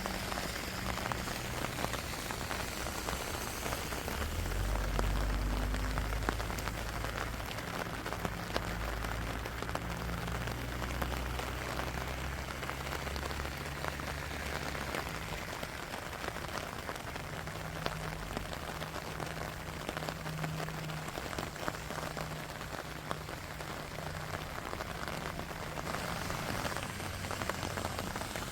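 Steady rain falling, a dense patter of drops. A low rumble rises about four seconds in and fades out about halfway through.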